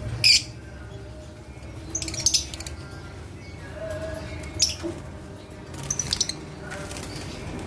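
Lovebirds giving a handful of short, shrill squawks and chirps, several seconds apart, the sharpest about a quarter-second in and another cluster around two seconds.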